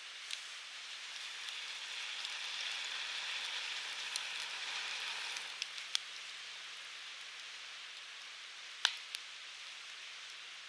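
Firewood burning with a steady hissing rush and scattered crackles and pops. The hiss swells for a few seconds early on, and one louder pop comes near the end.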